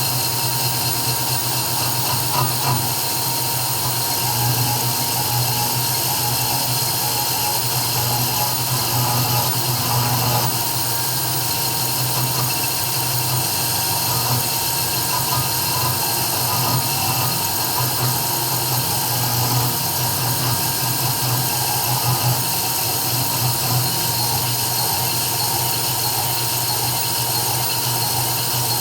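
CNC 3040 desktop engraving machine running steadily as it engraves, its spindle giving a high whine over a constant low hum.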